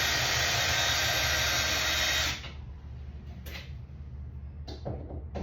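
Power drill motor running steadily for about two seconds, then stopping, followed by a few brief blips of the trigger. It is being used to back out the screws that hold the shower door track to the wall.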